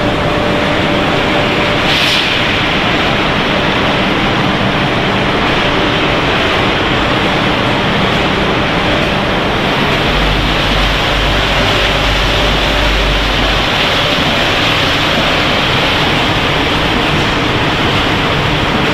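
Steady, loud running noise of a potato-chip production line's machinery: the mesh conveyor, the fryer and the rotating drum. A deep low rumble joins about halfway through.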